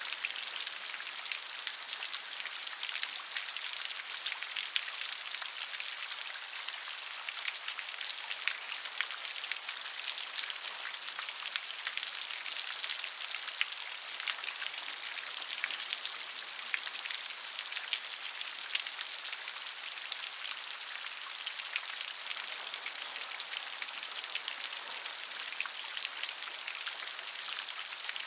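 Steady rain, a constant hiss with many small drop ticks pattering on a surface.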